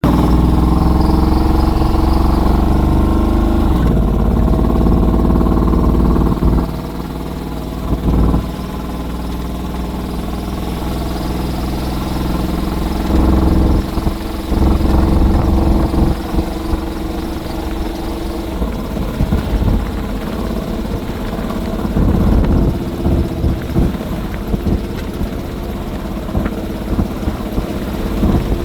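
Modified Gen V 6.2-litre LT1 V8 in a 1990 Jeep Wrangler, running loud through an electronic muffler-delete exhaust while driving. It pulls hard for the first six seconds and drops off, with a short blip about eight seconds in. It swells again around thirteen to sixteen seconds, then gives a string of short blips of throttle near the end.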